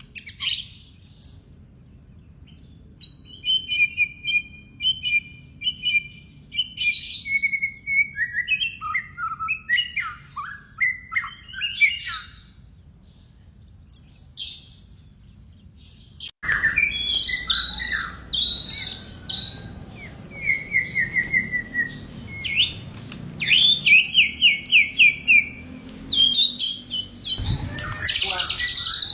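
Songbirds singing in rapid, varied chirps, trills and whistled phrases. About halfway through the recording switches abruptly to another bird singing louder, with quick runs of repeated notes.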